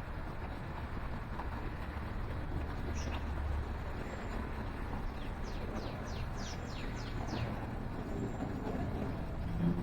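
A small songbird calling: a single high note, then a quick run of about eight high notes that each fall in pitch, and another single note near the end. Underneath is a steady low rumble.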